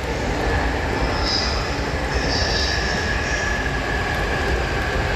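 Train moving through a station, with a continuous rumble and a steady whine. Brief high wheel squeals come three times in the first few seconds.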